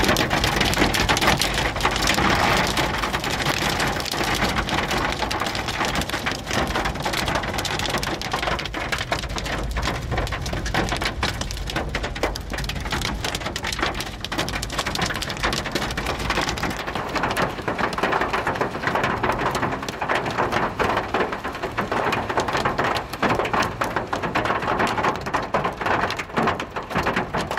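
Torrential rain pouring onto a waterlogged road, a dense, steady hiss of drops pelting the surface that holds through the whole downpour.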